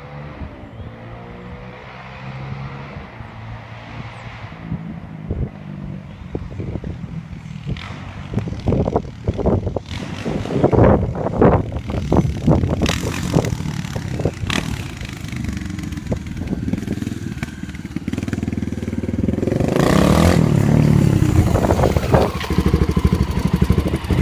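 Honda XL600R's single-cylinder four-stroke engine running through a homemade chambered slip-on muffler made of 3.5-inch pipe with slash-cut baffles. It idles steadily at first, then is revved in repeated sharp blips from about a third of the way in, and is at its loudest a little before the end.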